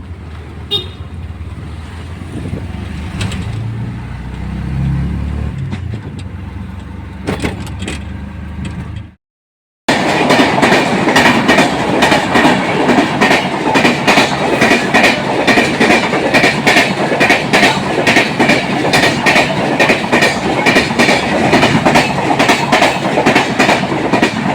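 A road vehicle's low steady rumble, then after a sudden cut a train running past close by, its wheels clattering loudly and rapidly over the rail joints.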